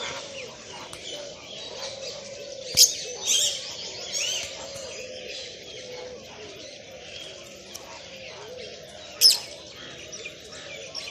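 Fischer's lovebirds chirping and twittering continuously, with two loud, sharp shrieks about three seconds in and about nine seconds in.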